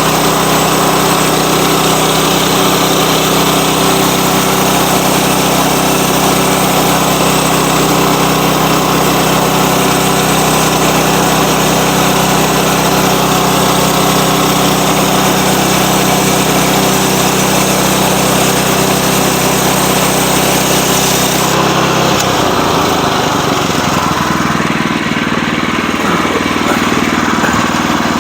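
Sawmill engine running steadily under load, then dropping in pitch and easing off about three-quarters of the way through, with less hiss from then on.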